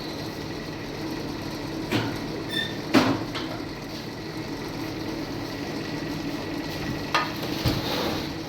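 A few sharp knocks and clinks over a steady low hum: one about two seconds in, the loudest about three seconds in with another just after, and two more near the end.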